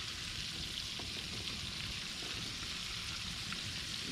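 Flour-coated catfish pieces frying in hot oil in a skillet, a steady sizzle.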